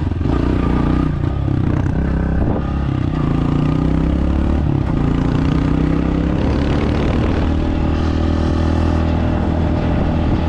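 Dirt bike engine running under throttle as the bike is ridden, its pitch rising as it accelerates, with a few short knocks from the bike.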